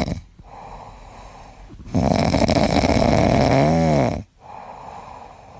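A sleeping pet snoring loudly in a slow rhythm, each rasping snore lasting about two seconds with a quieter breath between; the snore in the middle ends in a short whistling rise and fall in pitch.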